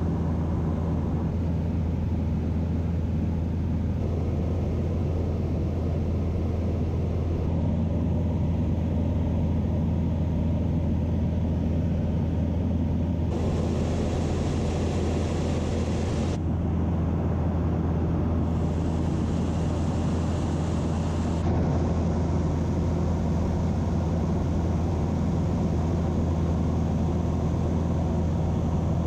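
Piper Cherokee 140's four-cylinder Lycoming engine and propeller droning steadily in cruise flight, heard from inside the cabin. A brighter hiss rises over it twice, for about three seconds each time.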